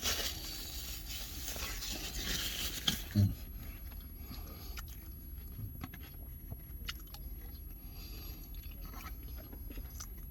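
A person chewing and eating poutine with small, wet mouth clicks scattered throughout. A brief low voice sound comes about three seconds in.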